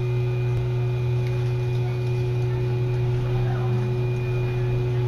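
Steady low hum inside an electric commuter train's cabin as it pulls away from a station, with a fainter higher steady tone over it.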